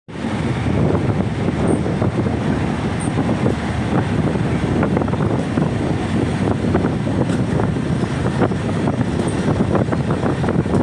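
A train running, heard from on board: a steady low noise of the moving train with many small clicks and rattles throughout.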